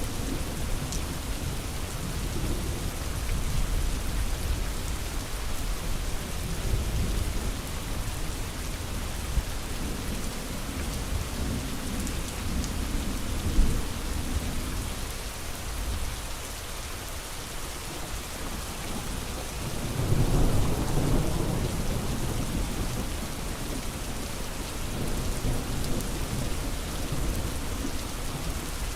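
Steady rain, with low thunder rumbling underneath that swells about two-thirds of the way through.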